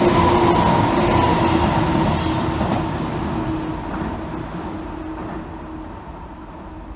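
Tobu 10050-series and 10000-series electric commuter train running past at close range, with steady tones from its running gear and a few sharp wheel clicks on the rails. The sound fades away from about three seconds in as the last car goes by.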